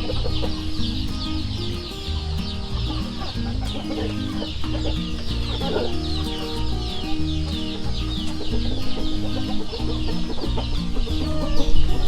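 Chickens clucking in a pen, over background music with a low, stepping melody.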